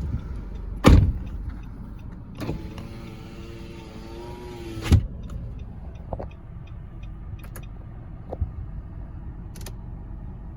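A heavy slam about a second in, then a 2017 Nissan Rogue SV's electric window motor whining for about two and a half seconds and stopping with a clunk. The 2.5 L four-cylinder engine idles low underneath, with a few small knocks afterwards.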